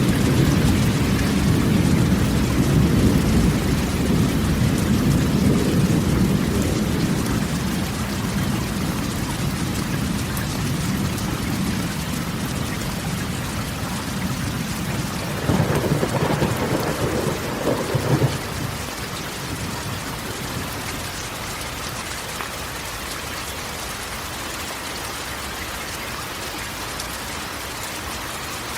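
Rain drumming steadily on a corrugated metal roof, with a long roll of thunder rumbling and slowly fading over the first dozen seconds. A shorter, sharper burst of thunder comes a little past halfway, then the rain carries on alone.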